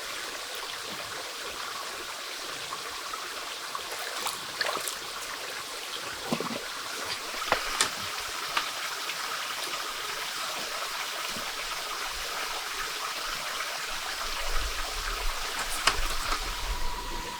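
Flowing water, a steady rushing like a stream, with a few light clicks and knocks.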